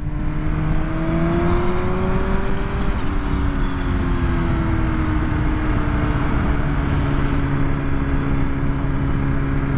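2020 BMW S1000RR's inline-four engine running under way on its stock exhaust. Its pitch climbs for about three seconds, breaks and drops briefly, then eases down and holds steady. Wind rushes over the helmet microphone throughout.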